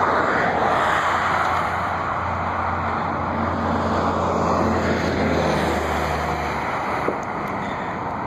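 Jet airliner engines rumbling, loudest at first and slowly fading. A low steady hum underneath stops about six and a half seconds in.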